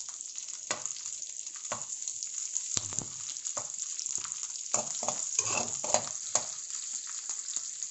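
Pork, onion and garlic sizzling in hot oil in a metal wok, with a steady hiss, while a metal ladle stirs and scrapes the pan in uneven strokes. This is the sauté stage of cooking, with the onion just added to the browned pork.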